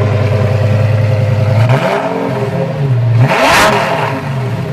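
Lamborghini Gallardo V10 engine through a titanium aftermarket exhaust with the catalytic converters kept, idling steadily and then revved twice, about two and three and a half seconds in, its pitch rising and falling each time. The second rev is the louder.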